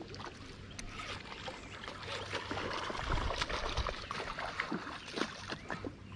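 Water splashing and trickling close by, with many small irregular clicks and crackles.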